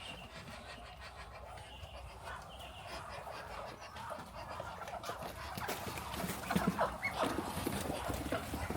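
Farm poultry making short clucking calls, more of them and louder in the second half.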